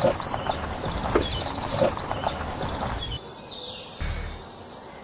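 Birds chirping in short, repeated falling calls, with a few sharp knocks in the first two seconds and a low background rumble.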